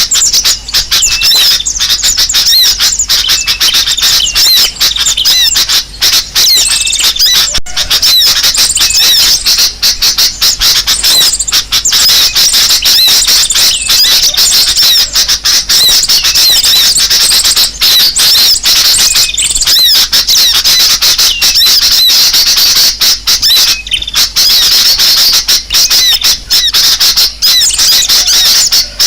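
Bird-lure recording of a noisy flock of small birds chattering and chirping at once: a dense, loud, unbroken mass of rapid high calls and trills.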